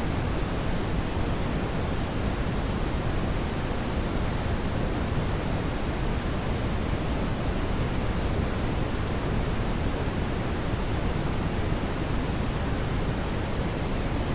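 Brown noise: a steady, even rushing hiss weighted toward the low end, with no change or events.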